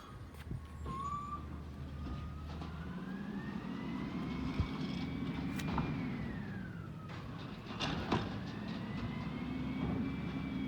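Peterbilt 320 garbage truck with an Amrep elliptical body, its engine revving up twice to drive the hydraulics. Each rev brings a whine that rises, holds and falls back. A few sharp metallic knocks sound in the middle and about three quarters through.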